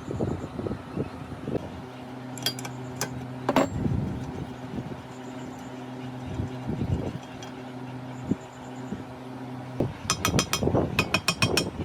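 Metal parts clinking and knocking as they are handled, with a quick run of sharp metallic clicks near the end. A steady electric hum sounds through the middle and stops shortly before that run.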